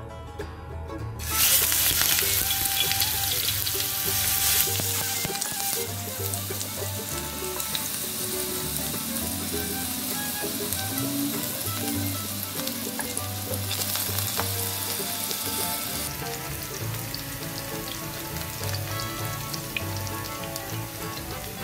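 Eggplant rings frying in hot oil in a nonstick frying pan: a sizzle that starts suddenly and loudly about a second in, then goes on steadily. Background music runs under it.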